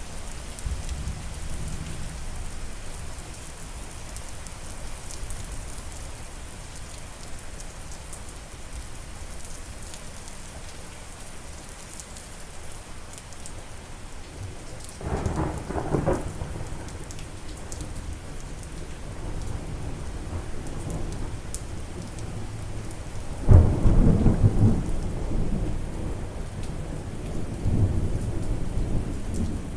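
Steady rain falling, with thunder rumbling twice: once about halfway through, and again more loudly and for longer in the last third, starting with a sudden crack.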